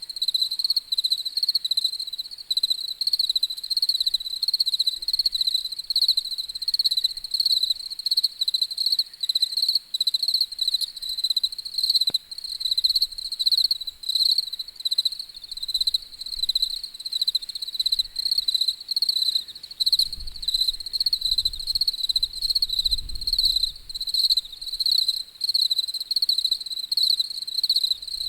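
Crickets chirping in a steady, fast-pulsing high trill that never lets up. A faint low rumble comes in about two-thirds of the way through.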